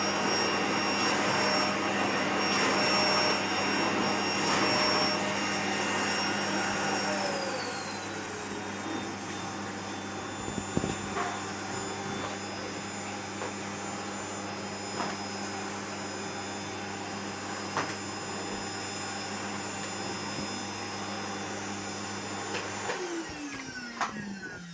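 Hoover vacuum cleaner motor running at full power with a steady whine. About seven seconds in its pitch glides down and it runs on at a lower, quieter speed. Near the end it is switched off and winds down to a stop.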